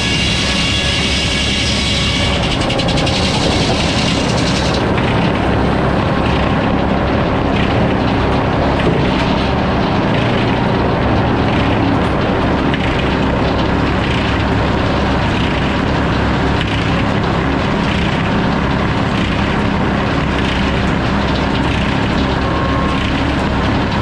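Sawmill saw running steadily while sawing hardwood lumber. A high whining tone in the first few seconds drops away, leaving a steady mechanical run with a faint regular pulse.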